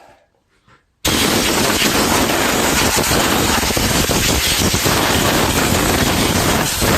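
A strong blast of air starts suddenly about a second in and keeps up steadily, blowing mouse-nest debris out from under a small engine's cooling shroud, with a dense crackle of air and debris.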